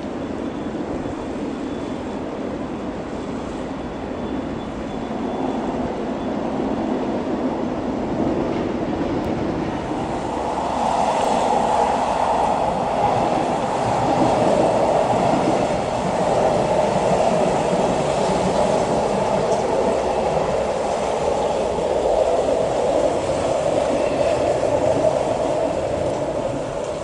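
Diesel passenger train running across a steel railway bridge, a steady train noise that grows louder about ten seconds in and stays loud until near the end.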